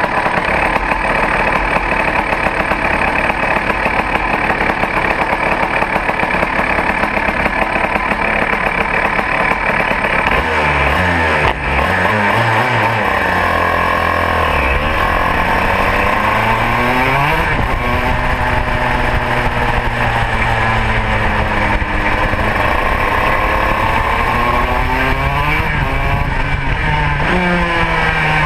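Modena two-stroke kart engine running hard, heard onboard. It holds steady high revs for about ten seconds, then its pitch drops and climbs again several times as the revs fall and rise on the lap.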